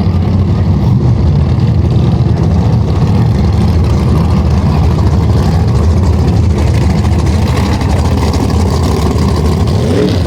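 Drag-race car engine running steadily at idle, a loud, even, low rumble with no revs or sudden noises.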